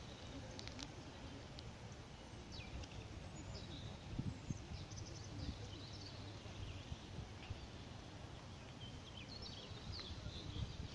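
Small birds chirping now and then, short falling chirps and brief trills, over a low rumble of wind on the microphone.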